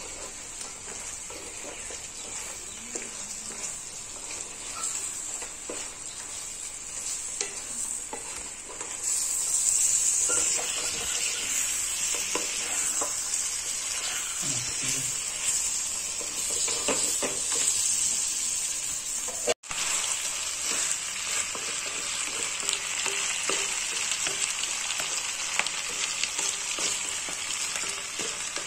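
Pork pieces sizzling as they stir-fry in a hot wok, with a spatula scraping and turning them. The sizzle grows louder about a third of the way in.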